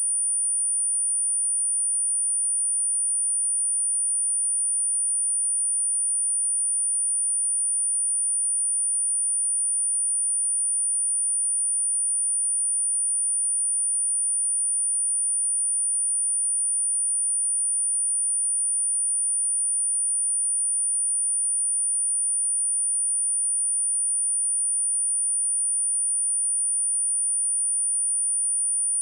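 A steady, high-pitched pure sine tone at 9394 Hz, held at one even level without a break: an electronically generated test tone for checking speakers and shaking water and dust out of them.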